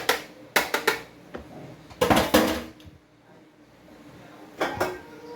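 Kitchen utensils clattering against a mixing bowl as the whisk is taken out: a few quick knocks about half a second in, a longer scraping clatter around two seconds in, and another short knock near the end.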